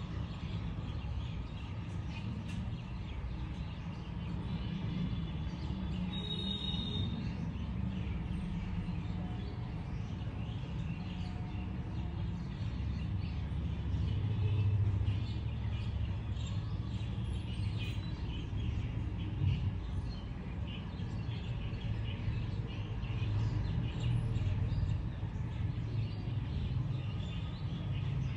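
Small birds chirping and twittering at a feeder, many short calls throughout, over a steady low rumble.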